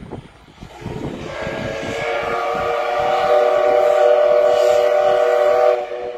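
A train's horn sounding one long blast of several steady tones together, growing louder over the first few seconds and cutting off suddenly near the end, over the rumble of the moving train.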